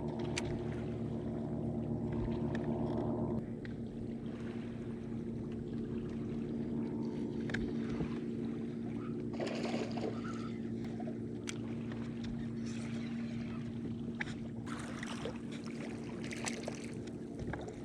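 Electric trolling motor on a bass boat humming steadily with a few steady tones, dropping a step in level and pitch content about three seconds in as it is throttled down. Brief clicks and swishes from fishing gear come over it now and then.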